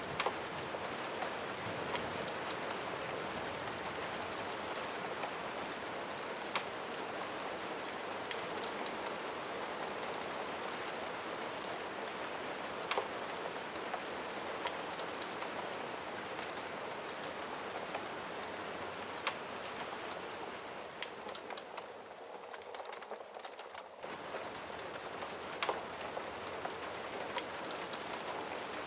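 Steady rain falling, with an occasional sharp tick every few seconds. It briefly thins out and drops in level about 22 seconds in, then returns.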